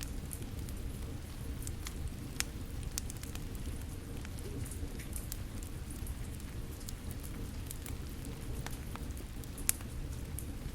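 Wood fire crackling, with scattered sharp pops and two louder snaps, over a steady hiss of falling rain.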